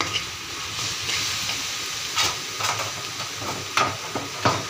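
Sliced onions frying in a wok in freshly added oil, giving a steady sizzle, while a slotted metal spoon scrapes and knocks against the metal pan about four times in the second half.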